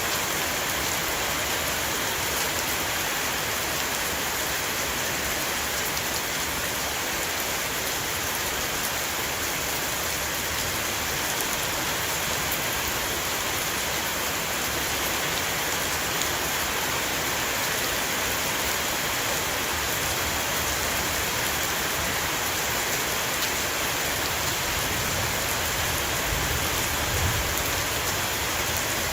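Heavy rain shower falling on a roof: a steady, dense patter of drops with scattered sharper ticks. A low rumble rises near the end.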